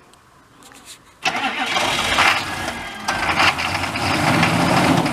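A long-parked pickup truck's engine, running on two freshly fitted batteries, cranks and fires up from about a second in, then runs loudly.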